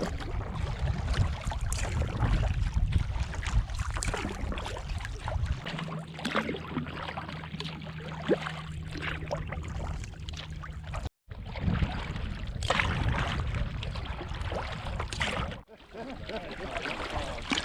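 Paddle strokes dipping and splashing as small solo canoes move across a lake, with wind rumbling on the microphone. The sound cuts out briefly twice.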